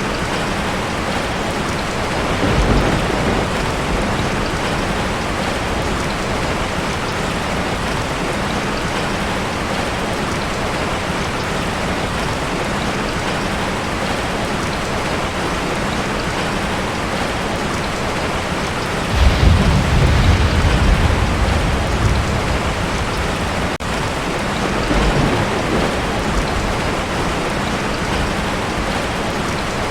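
Heavy rain drumming steadily on a tin roof, with rolls of thunder: a short rumble a few seconds in, a longer, louder one about two-thirds of the way through, and a weaker one shortly after.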